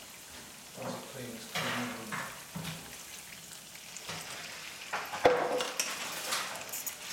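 Sliced carrots frying in oil and soy sauce in a wok, with a steady sizzle and one sharp knock about five seconds in.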